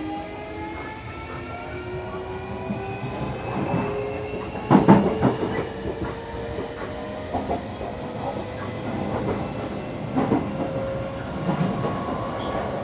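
JR Kyushu 305 series electric train heard from inside its motor car: the VVVF inverter and traction motors give a whine of several tones that rises slowly in pitch as the train gathers speed. The wheels clatter over rail joints, loudest about five seconds in, with more clacks near the end.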